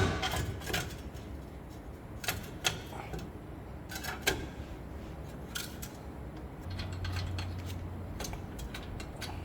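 Metal clicks and knocks from a front wheel hub assembly and hand tools being worked as the hub is seated on the axle shaft splines, with a sharp knock at the very start and a quick run of small clicks near the end.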